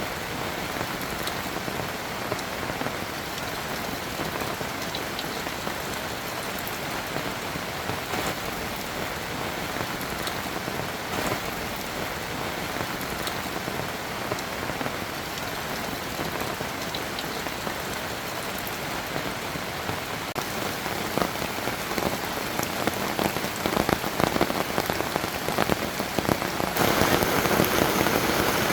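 Rain falling steadily, a dense patter of individual drops striking close by. It grows heavier about three quarters of the way through and louder again near the end.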